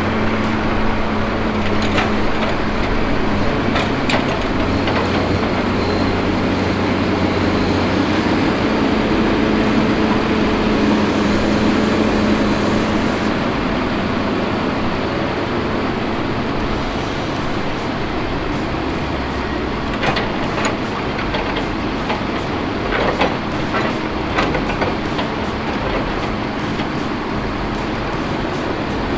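A heavy vehicle's engine running steadily with loud mechanical and road-type noise, and a few scattered rattles and clicks, more of them about 20 to 25 seconds in.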